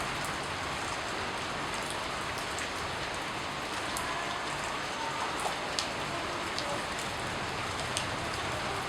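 Steady rain falling, with a few distinct drops landing as sharp ticks scattered through it.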